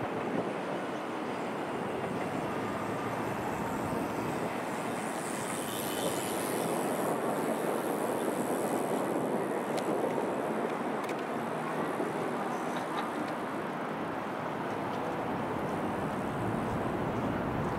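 Steady rumble of a train running on the tracks, swelling in the middle and easing off again.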